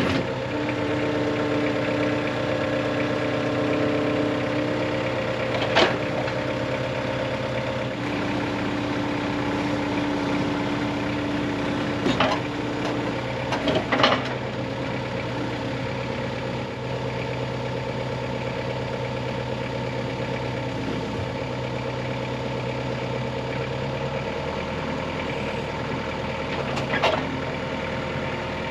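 An engine running steadily with a few sharp knocks: one about six seconds in, a couple around the middle and one near the end.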